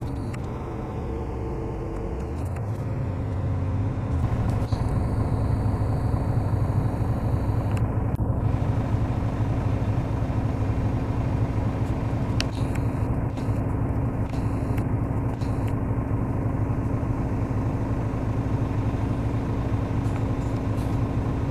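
Steady low engine rumble of a loaded stone freight train crawling over a level crossing. It grows louder a few seconds in, then holds steady.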